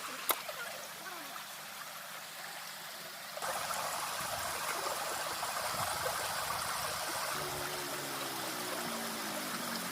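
Running water trickling steadily; it gets suddenly louder about three seconds in. Near the end a wavering pitched sound comes in over it.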